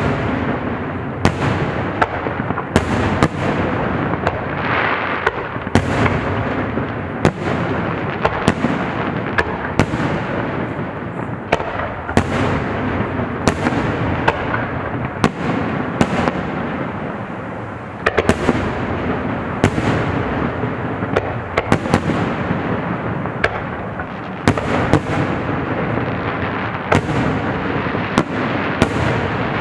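Fireworks display going off in a dense barrage: sharp bangs, often one or two a second, over a continuous crackle and rumble of bursting shells.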